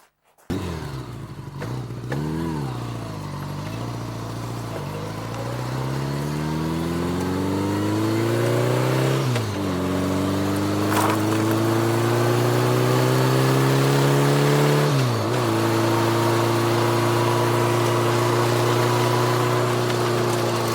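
A car engine starts, revs briefly, then accelerates away through the gears. The pitch climbs and drops at two gear changes, about 9 and 15 seconds in, then holds steady at cruising speed.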